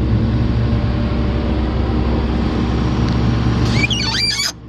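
Komatsu PC450LC-8 excavator's diesel engine idling steadily. Near the end there is a brief high squeaky chirping, and then the sound drops off suddenly.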